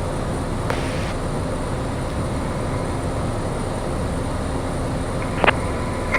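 Cockpit noise of a Piper light plane's piston engine and propeller running steadily, with two brief clicks, one about a second in and one near the end.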